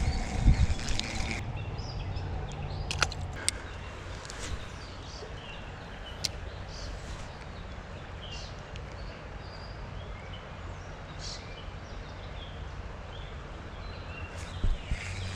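Creek-side outdoor ambience: a steady low rush of moving water with scattered short bird chirps, and a few sharp clicks about three seconds in.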